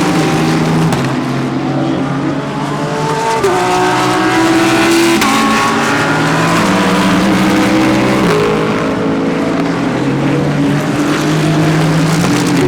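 Several GT3 race cars accelerating out of a corner one after another, their engines climbing in pitch and dropping sharply at each upshift, with more than one car heard at once.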